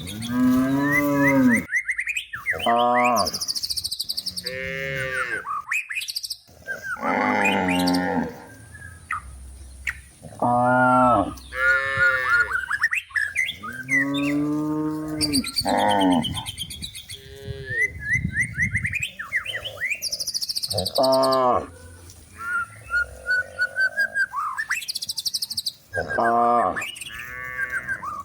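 Several cows mooing over and over, one call after another every second or two, some calls overlapping and some falling in pitch.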